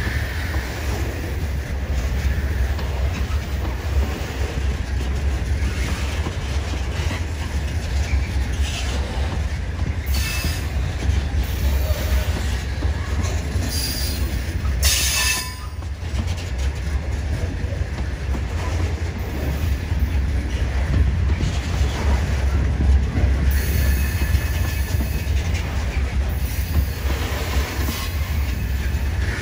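Coal hopper wagons of a long freight train rolling past at close range: a steady low rumble of wheels on rail, broken by several short bursts of high-pitched wheel squeal, the loudest about halfway through.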